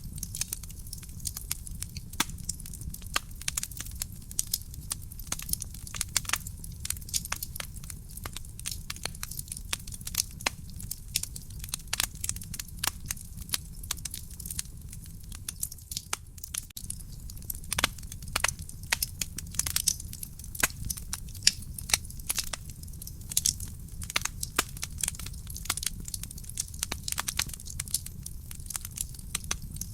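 Wood fire in a fireplace crackling: a dense, irregular stream of sharp snaps and pops from the burning logs, some louder than others, over a steady low rumble of the flames.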